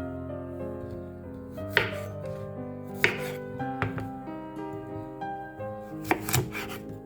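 Knife chopping on a cutting board: a handful of separate, irregular strokes, with a quick cluster near the end. Background music with held notes plays underneath.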